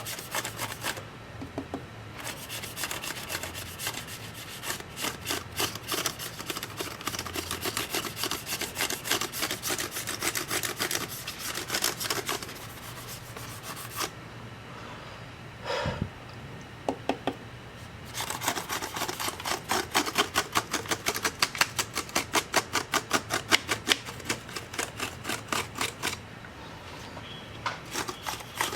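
Quick, rhythmic scrubbing strokes, about three to four a second, in two long runs with a short pause and a single knock between them, typical of brushing or wiping dust off laptop parts during cleaning.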